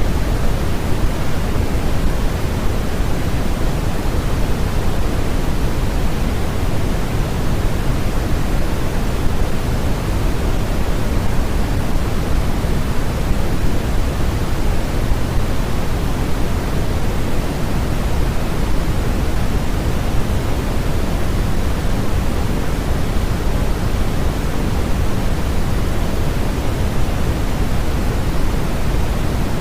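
Steady generated noise: an even, unchanging hiss with more weight in the low end than the high, in the manner of pink noise.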